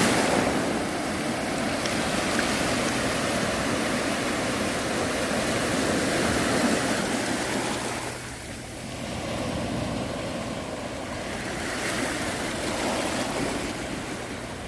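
Sea waves breaking and washing on a beach, a steady rush of surf that eases about eight seconds in and builds again.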